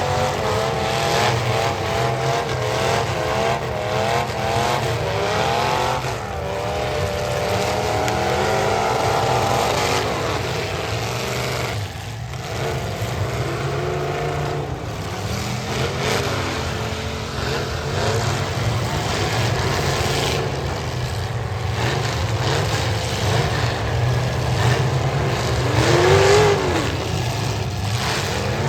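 Several demolition derby cars' engines revving at once, their pitch rising and falling over a steady low rumble.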